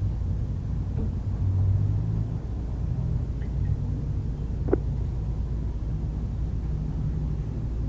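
Refrigeration compressor running with a steady low hum and rumble, with one sharp click about five seconds in.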